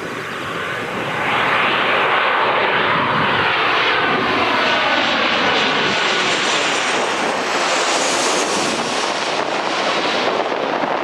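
Boeing 737-800 jet airliner's CFM56 engines as the plane passes close by on landing: a loud, steady jet rush with whining tones that slide down in pitch as it goes past, and a high whine showing up near the end.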